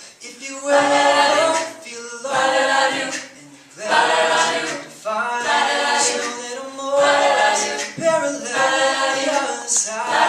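An a cappella vocal group singing in harmony, several voices without instruments, in sung phrases broken by short pauses.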